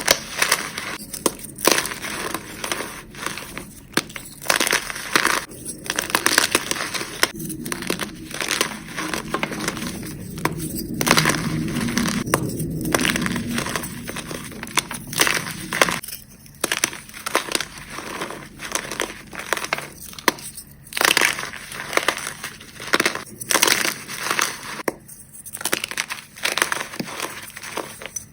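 Reformed gym chalk being crushed: a dense, irregular run of crisp, glassy crunches with short pauses between handfuls.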